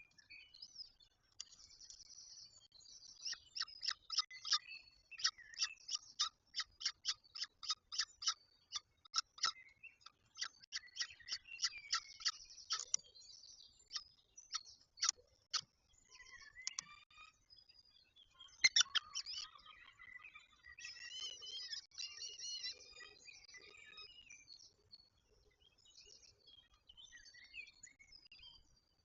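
Peregrine falcons calling at the nest: a long run of harsh, rapid repeated calls, about three a second, followed by more irregular chattering calls.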